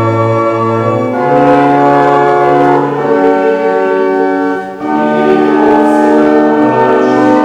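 Church organ playing held chords over a moving bass line, with a short break between phrases a little under five seconds in.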